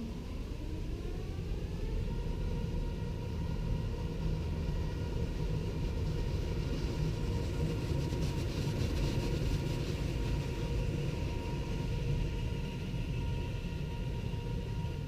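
Automatic car wash machinery heard from inside the car: a steady low rumble, with a motor whine that rises in pitch over the first couple of seconds and then holds. Around the middle, a rapid patter is added.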